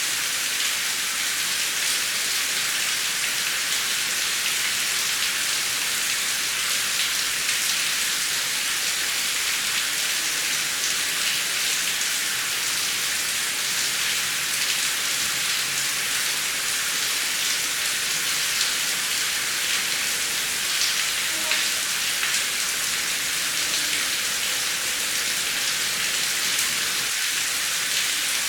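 Heavy rain falling steadily: a dense, even hiss with individual drops ticking through it, and no thunder.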